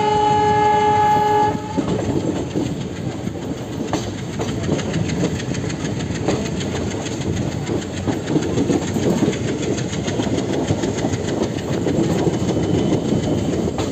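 Indian Railways passenger train's locomotive horn sounding one steady blast of a little under two seconds, heard from a coach of the moving train. Then the steady rumble and clatter of the coaches' wheels running over the rails.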